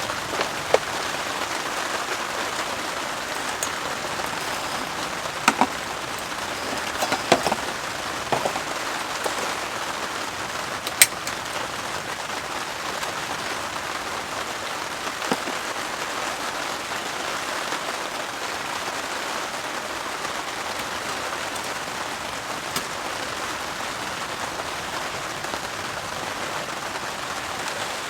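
Steady rain falling on a heavy-duty tarp overhead, an even hiss with a few sharp ticks of larger drips, the loudest about eleven seconds in.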